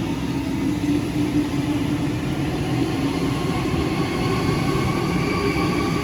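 Electric passenger train running through the station: a steady, loud rail rumble with a faint whine over it.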